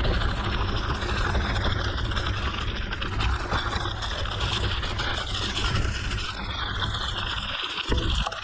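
Mountain bike rolling on a gravel forest road: wind rumbling heavily on the microphone over the rough crunch of the tyres, dipping briefly near the end.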